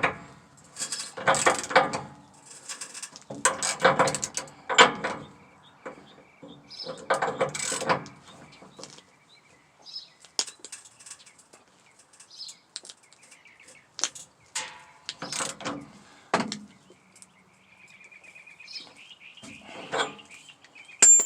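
Ratchet clicking in three rapid bursts during the first eight seconds as a large socket tightens the nut on a trailer hitch ball, followed by scattered single clicks and knocks.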